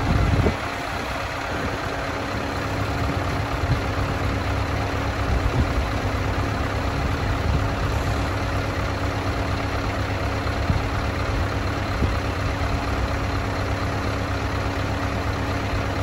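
Scania R560 truck's V8 diesel engine idling steadily, with a brief louder surge right at the start.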